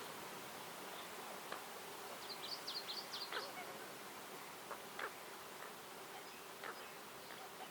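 Forest ambience: a bird gives a quick run of high chirps between about two and three and a half seconds in, with a few single sharp notes afterwards, over a steady background hiss.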